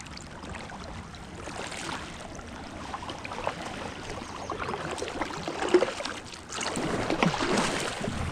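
Kayak being paddled across a river current: paddle blades splashing and dripping, and water lapping at the hull, with many small splashes throughout. It grows louder about two-thirds of the way through.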